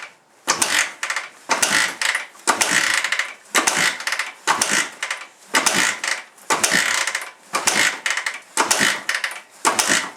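2003 Suzuki DR-Z125's single-cylinder four-stroke engine being kick-started about ten times, roughly one kick a second, with the choke on; it turns over on each kick but never fires, a cold engine that won't catch after months of sitting.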